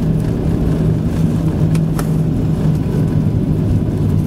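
Steady cabin noise of a Boeing 737-600 on the ground just after landing: the CFM56-7B engines running at low power with a constant low hum. Two short clicks sound about two seconds in.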